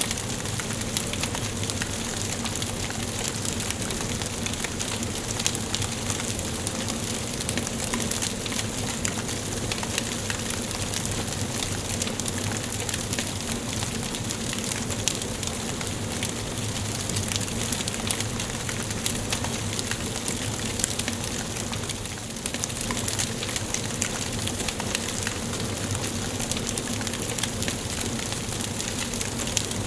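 Wood fire burning in a fireplace: a steady crackle of many small snaps and pops over a hiss.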